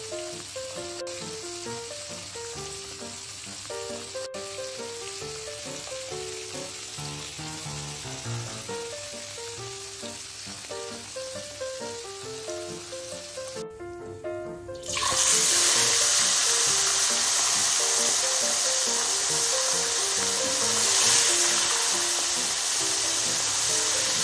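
Catfish pieces deep-frying in a wok of hot oil: a steady sizzle under light background music. After a short dip about 14 seconds in, the sizzling comes back much louder and covers the music.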